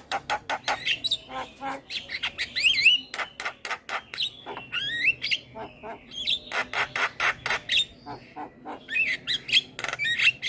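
Javan myna singing a busy, varied song: rapid harsh clicks and squawks mixed with rising whistled notes. It stops abruptly at the end.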